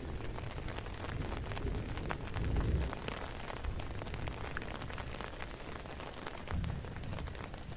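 Heavy rain falling, with many small drop ticks and a couple of low rumbles, about two and a half and six and a half seconds in.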